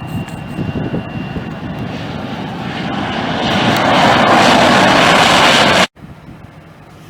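Jet airliner passing close by, its engine roar swelling steadily over a few seconds to a loud peak, then cut off abruptly.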